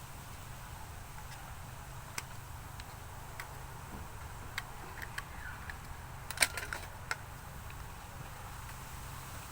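Scattered light clicks and taps, with a short cluster of louder clicks about six and a half seconds in, over a steady low hum.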